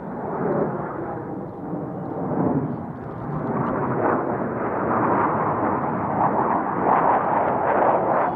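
Jet engine noise from Blue Angels F/A-18 Hornets flying the air show demonstration: a loud, rushing noise that grows louder through the second half as the jets come closer.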